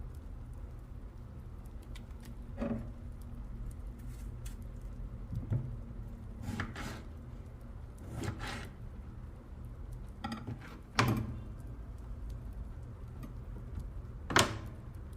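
Kitchen handling sounds: about seven separate knocks and clatters of dishes or utensils, the loudest two near the end, over a low steady hum.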